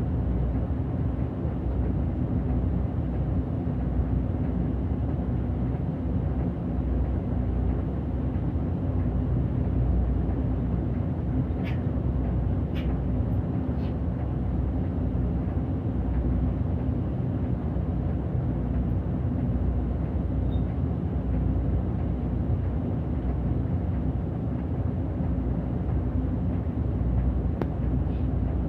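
A city bus running on the road, heard from on board: a steady low engine and road rumble with a constant hum. Near the middle there are three short clicks about a second apart.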